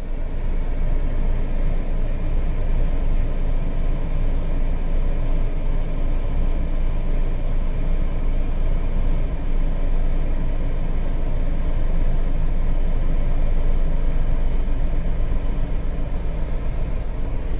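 Steady rush of air from a Suzuki Palette's air-conditioning vents with the blower on maximum, over the low hum of the idling engine.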